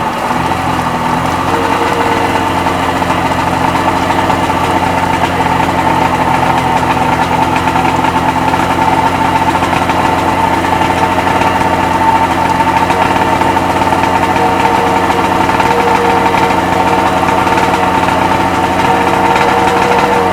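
Rebuilt Sea-Doo XP 720 Rotax two-stroke twin idling steadily on a flush hose with the jet pump driveline disconnected, during a break-in heat cycle of the new motor.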